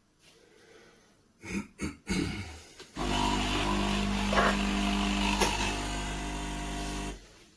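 A few knocks and clicks, then the De'Longhi Dedica espresso machine's vibratory pump buzzing steadily for about four seconds before it cuts off suddenly.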